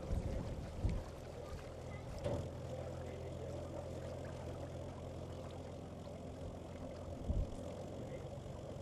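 Low, steady hum of a small boat's motor running, with a few dull knocks.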